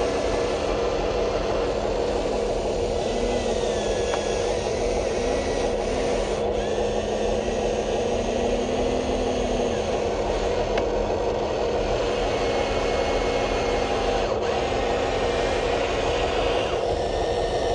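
Small electric motors and plastic gearboxes of radio-controlled construction models whirring steadily, with a low motor whine that switches on and off and changes pitch in steps as different functions are driven.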